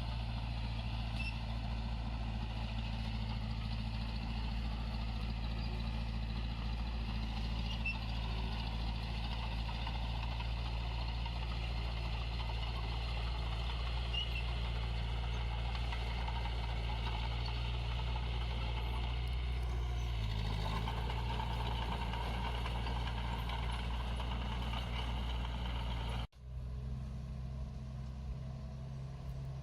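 Heavy-equipment diesel engine running steadily with a constant low engine note. A short shift in the sound comes about two-thirds of the way through, then an abrupt break near the end, after which a steady engine note resumes.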